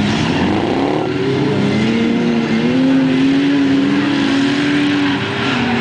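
Engines of junk cars racing on a dirt track, several running at once; one engine revs up over the first few seconds, holds high, then drops off near the end.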